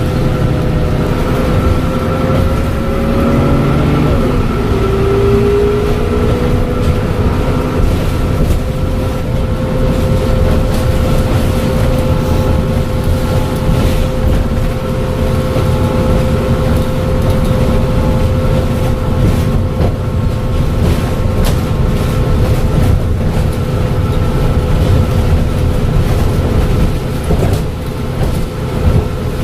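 Dennis Trident double-decker bus with a Voith automatic gearbox under way: a steady engine and road rumble with a high turbo whistle held over it. About four seconds in the whistle's pitch dips and then climbs again before holding steady.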